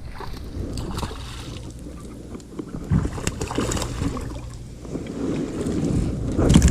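Wind rumbling on the microphone aboard a fishing kayak on open water, with a few short knocks and splashy noises scattered through it.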